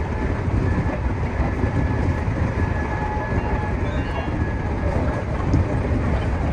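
Meitetsu 2200 series electric train running at speed, heard from the driver's cab: a steady rumble of running noise with a faint high steady whine.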